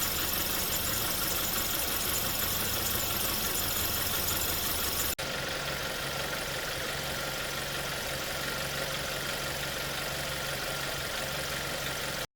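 Volkswagen Golf Touran's engine idling steadily with a newly fitted drive belt. The sound drops out for an instant about five seconds in and resumes slightly changed, as where two recordings are joined.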